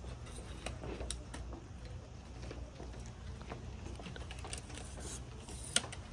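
Quiet room with a low steady hum and scattered light taps and shuffles from people moving about on a wooden floor. One sharp click comes near the end.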